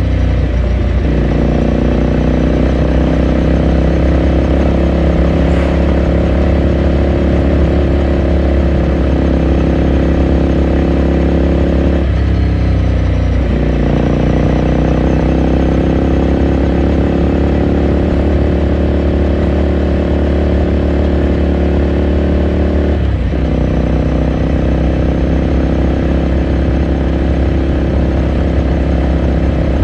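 Ducati Scrambler Sixty2's air-cooled V-twin engine and exhaust heard onboard while riding, pulling steadily with the engine note breaking at gear changes about twelve seconds in and again near 23 seconds, then climbing again.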